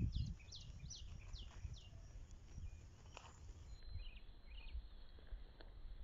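Small birds chirping, a quick run of short falling calls in the first two seconds and a few more about four seconds in, over a low fluctuating rumble of wind on the microphone. There are a few faint knocks.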